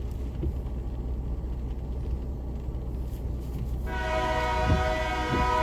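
A train's air horn sounds a steady multi-note chord, starting about four seconds in, over a low rumble.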